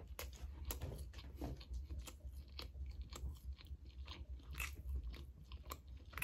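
Close-up chewing of a pan-fried barbecue burger on a bun: irregular wet mouth clicks and smacks while eating, over a low steady hum.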